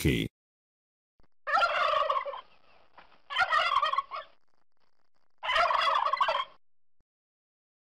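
Tom turkey gobbling three times, each gobble a rapid warbling call lasting about a second.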